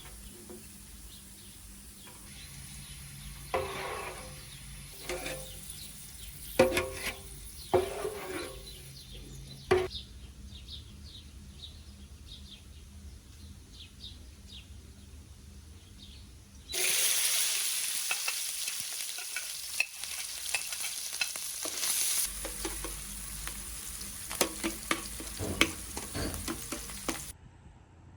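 Cooking in a metal pan: a utensil stirring, scraping and clanking against the pan with a faint sizzle underneath, then a loud sizzling starts suddenly about two-thirds of the way in and stops abruptly near the end.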